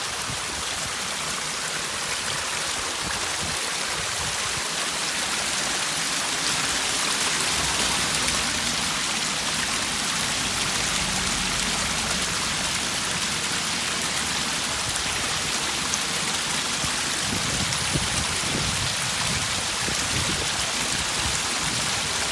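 Rainwater running down a flight of steps like a small waterfall, a steady rushing splash of flowing water.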